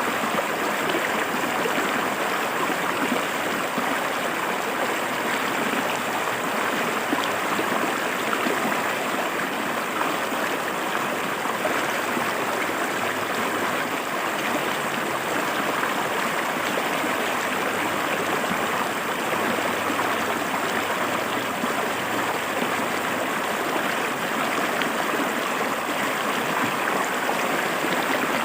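River water flowing and splashing over rocks, a steady even rush with no change.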